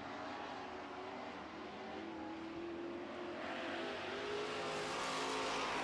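Several dirt-track super truck engines running at race speed around the oval, their engine notes overlapping. They grow louder from about halfway through as trucks come closer.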